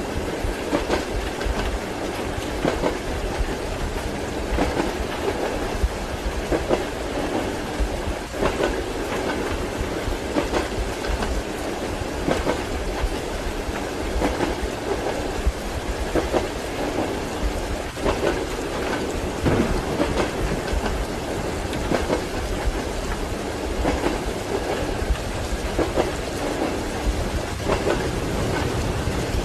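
Train wheels clacking over rail joints at a steady rhythm, about once every two seconds, over the rumble of a moving passenger carriage heard from inside, mixed with steady rain.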